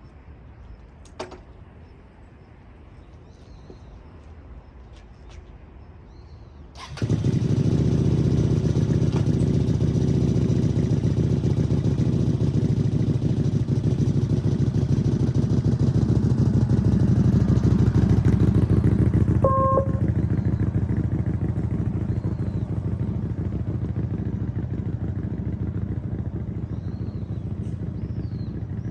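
A motorcycle engine starts abruptly about seven seconds in and then runs steadily, easing off a little in the last several seconds. A short beep sounds partway through.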